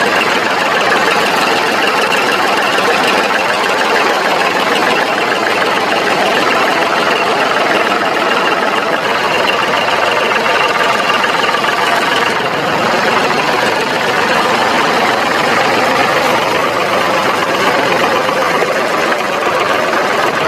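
Steady, continuous engine-like running sound with a fast knocking chug. It stays at an even level throughout, with little deep bass.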